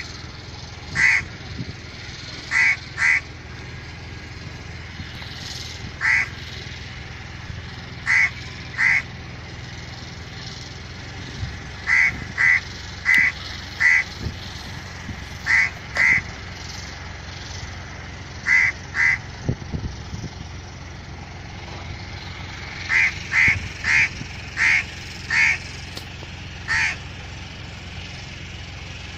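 Birds calling outdoors: short calls repeated every second or two, often in pairs, with a quick run of them near the end, over a steady low background hum.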